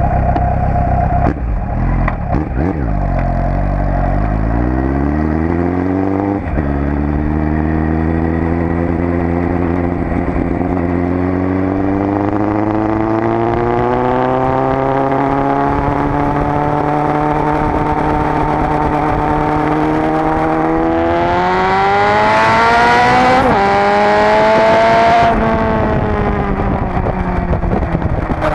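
Suzuki Bandit 1200 S inline-four engine on the move, revs rising from low and dropping sharply at an upshift about six seconds in, then settling into a long steady cruise. Near the end it revs up again through another sharp upshift before the revs fall away as the throttle rolls off.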